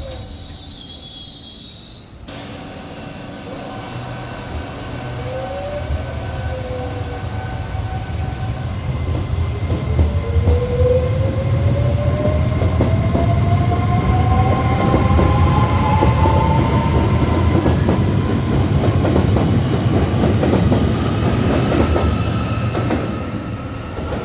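Double Trenord ETR204 Coradia electric multiple unit pulling away, its traction motors whining and rising steadily in pitch as it gathers speed, with the wheel rumble growing louder. A high squeal in the first two seconds cuts off abruptly.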